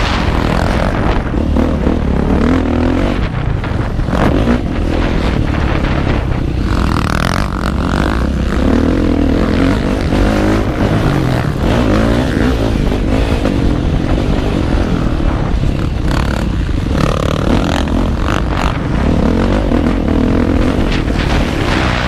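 Motocross bike engine heard close up from the rider's own machine, revving up and falling back again and again as it is ridden round the track, over rushing wind and rattling.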